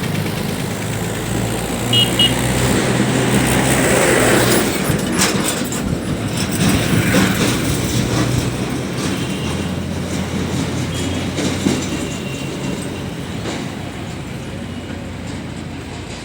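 A motor vehicle engine running steadily, with clattering and knocking around it.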